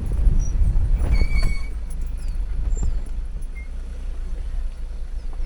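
Low rumble of a vehicle on the move, heaviest for the first second and a half and then easing off, with a brief high squeak a little after a second in.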